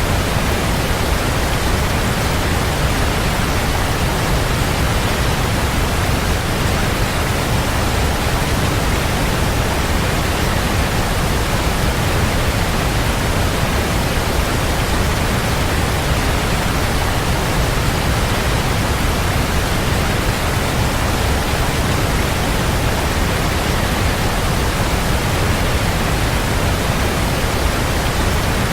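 Waterfall: water falling and splashing in a steady, unbroken rush, loud and deep-toned with a wide hiss.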